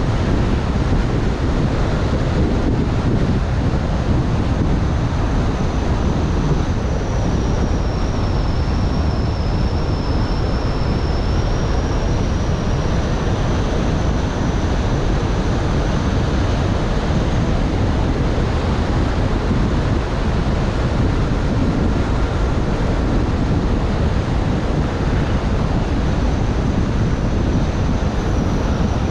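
Steady road and wind noise of a car driving, a continuous low rumble with a faint thin high whine drifting slightly in pitch above it.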